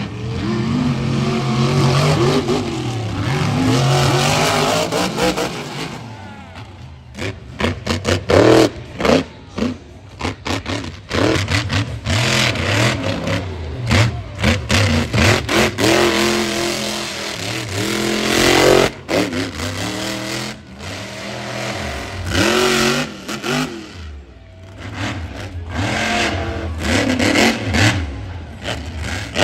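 Monster truck engines revving hard, the pitch rising and falling, turning choppy with quick on-off stabs of throttle from about six seconds in.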